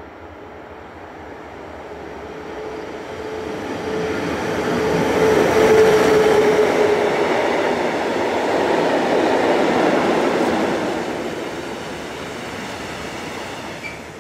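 SBB Re 6/6 (Re 620) electric locomotive hauling a freight train of tank wagons past, growing louder and then fading as the wagons roll over the rails. A steady whine sounds for a few seconds as the locomotive goes by, and the whole is loudest about six seconds in.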